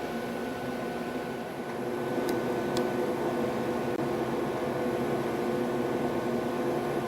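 Electric train car heard from inside: a steady hum of motors and equipment with a few steady tones over running noise, growing a little louder about two seconds in.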